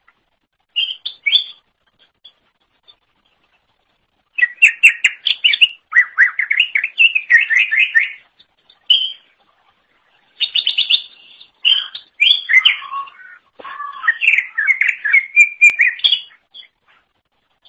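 Cucak ijo (greater green leafbird) singing in full voice: bursts of rapid, chattering high notes, the longest lasting a few seconds, broken by short pauses.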